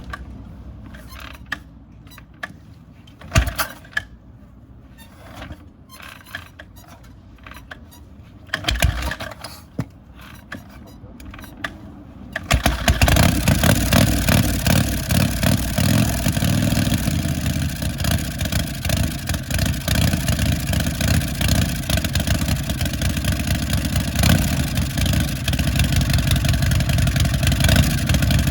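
S&S Shovelhead V-twin motorcycle engine being kick-started from cold: a few sharp thumps from the kicks, then about twelve seconds in it fires and keeps running at a steady, loud idle.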